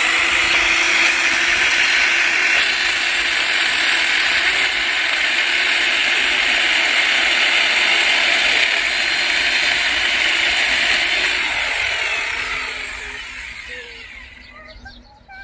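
Angle grinder converted into an electric chainsaw, its chain running at full speed through a log for about twelve seconds, then winding down as the motor coasts to a stop near the end.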